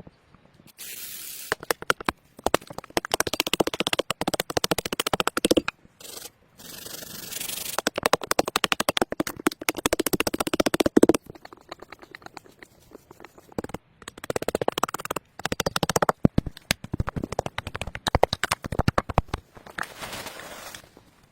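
Rough rasping scrapes in runs of a few seconds with short pauses between, each run made of many quick strokes, like a tool working wood or another hard material by hand.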